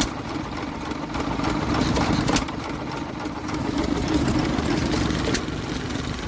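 Vintage stationary engines running in a show's engine pen, giving a steady low mechanical beat, with a couple of sharp clicks partway through.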